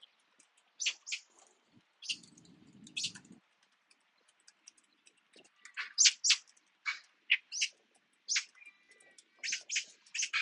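Small birds chirping: many short, sharp calls scattered through, thickest in the second half, with a brief low rustle about two seconds in.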